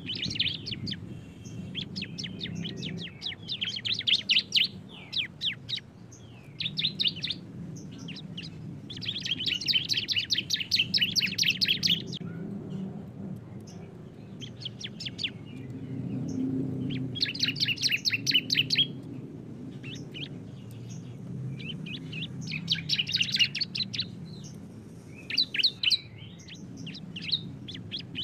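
Two bar-winged prinias (ciblek) singing the fast rattling 'bren' song: rapid trills of sharp, high notes in bursts of one to three seconds that overlap and alternate, over a low steady background hum.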